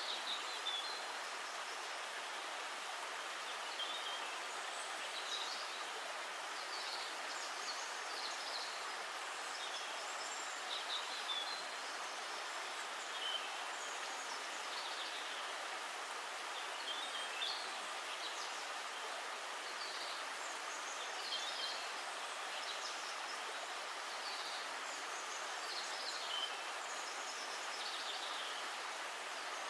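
Steady flowing water, with birds chirping briefly at scattered moments throughout.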